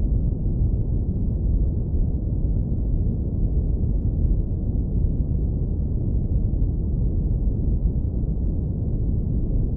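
Steady, deep brown noise, low-pass filtered so it is almost all low rumble with nothing bright on top.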